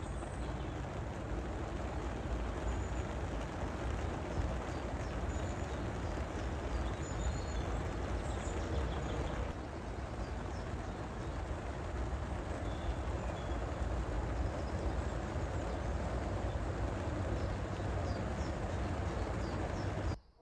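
Heavy rain falling steadily on a lake's surface: an even rushing hiss with a low rumble underneath.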